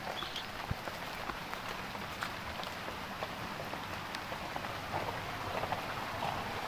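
Heavy rain falling steadily, with scattered sharp taps of drops landing close by.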